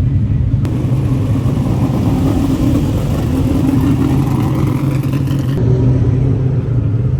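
Several dirt modified race car engines running with a deep, steady rumble, one of them revving up with a pitch that rises over a couple of seconds midway through.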